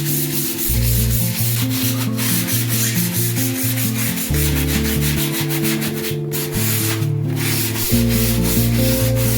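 A table surface being sanded, a dense scratchy rubbing hiss in repeated strokes, over background music.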